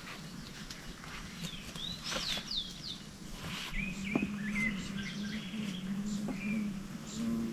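Wild birds chirping and calling in short, curved whistled notes, with a few sharp clicks. A low steady hum comes in about halfway through.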